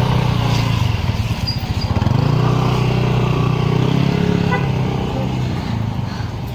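A motor vehicle engine running, dipping briefly about a second and a half in and easing off toward the end.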